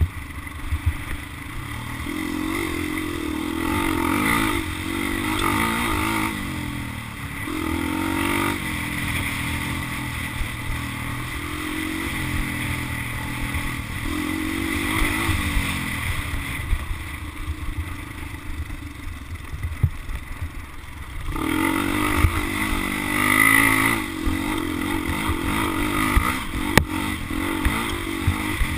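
Motocross dirt bike engine revving and easing off again and again as it rides, its pitch rising and falling. It drops back for a few seconds past the middle, then revs hard again.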